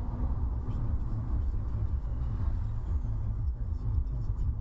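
Steady low rumble of a car's road and engine noise, as a dashcam records it inside a moving car.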